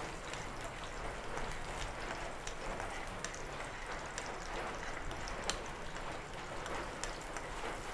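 Cashews and raisins roasting in hot ghee in a frying pan: a steady soft sizzle with many small scattered pops.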